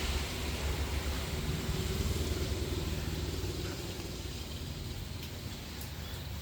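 An engine running steadily with a low, fluttering rumble that eases slightly in level toward the end.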